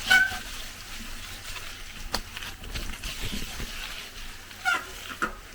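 Water sloshing and trickling, with scattered sharp knocks and clicks.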